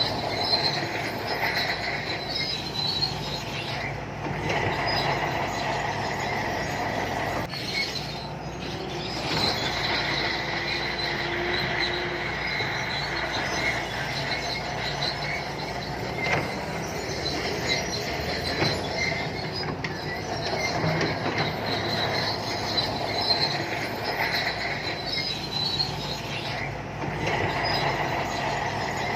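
Shantui crawler bulldozer running, its steel tracks squealing and clanking over the steady drone of the diesel engine.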